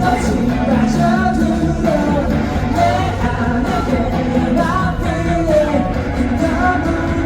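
Live concert performance of a pop-rock song: a male lead vocal sung over a loud, continuous band backing.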